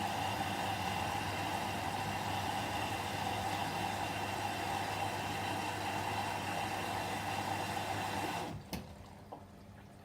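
Whirlpool washing machine with water rushing steadily through it, over a low hum. The flow cuts off sharply about eight and a half seconds in, with a click, leaving only a faint hum.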